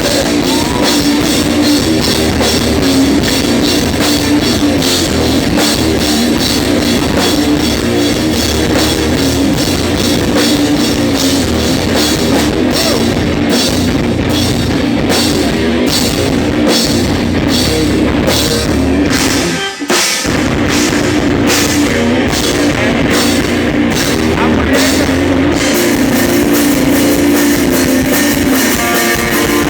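Pop punk band playing: distorted electric guitars, bass and a driving drum kit beat, with a brief full-band stop about two-thirds of the way through before the music comes straight back.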